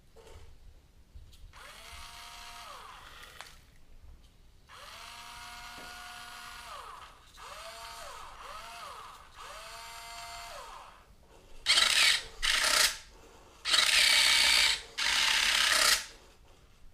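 Small electric drive motors and gearboxes of a Hobby Engine HE0715 RC track loader, running in short runs with a whine that rises smoothly, holds steady and falls away as the motors speed up and slow down. Near the end come four much louder, harsher grinding bursts.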